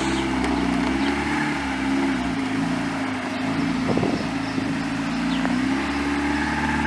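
Mazda Miata's four-cylinder engine running at low revs while the car is eased along, its pitch rising and falling slightly with the throttle. A brief knock about four seconds in.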